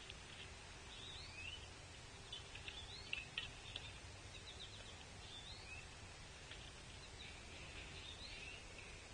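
Small birds calling: short high chirps and chip notes, some sliding up or down in pitch, repeated irregularly over a faint steady outdoor background.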